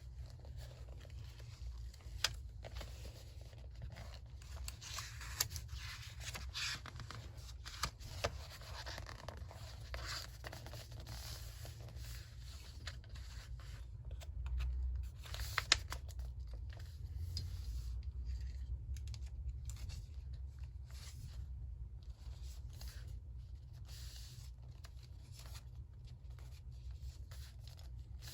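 Paper being handled, torn and snipped with scissors: a string of short rustles and tearing strokes with a few sharp clicks, over a steady low hum.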